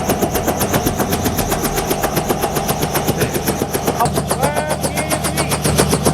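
Helicopter rotor beating in a fast, steady rhythm of about ten beats a second, with the engine running underneath.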